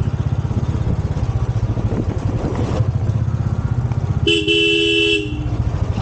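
Royal Enfield motorcycle engine running with a fast, even beat under way. About four seconds in, a vehicle horn sounds loudly for about a second on two steady notes, sagging slightly as it stops.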